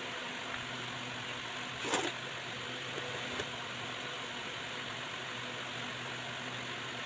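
Electric ceiling fan running with a steady hum and rushing air, with a brief knock about two seconds in and a faint click a little later.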